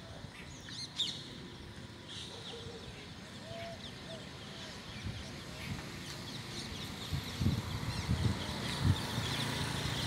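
Several small birds chirping and calling in short high notes, scattered throughout, with a few dull low thumps in the last few seconds.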